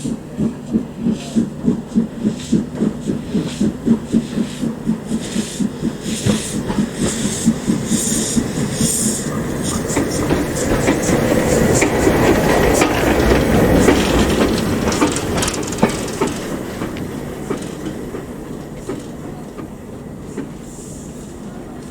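Steam-hauled train passing: even beats at about three a second, then a louder rumble and rush of the train rolling by, fading away near the end.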